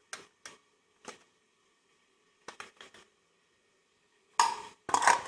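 Spoon clinking against a small bowl as spice powder is measured in: a few light, separate clinks, then a louder clatter of several knocks near the end.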